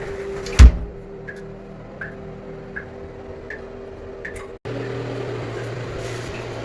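A steady machine hum with a few fixed tones, broken by one loud knock about half a second in. A few faint ticks follow. The sound cuts out for an instant about two-thirds of the way through, then the hum comes back fuller.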